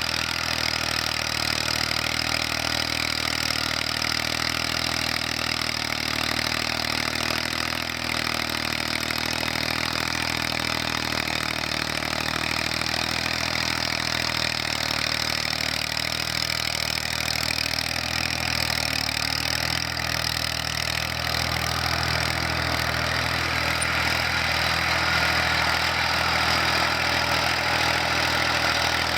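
Tractor engine running steadily, its pitch shifting a little in the middle and growing slightly louder near the end.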